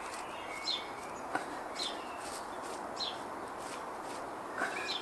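Small bird chirping, short high calls about once a second, over a steady outdoor hiss, with one soft click about a second and a half in.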